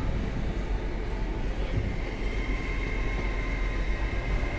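Hitachi Class 800 train pulling out of the station, running steadily, with a thin high whine setting in about two seconds in.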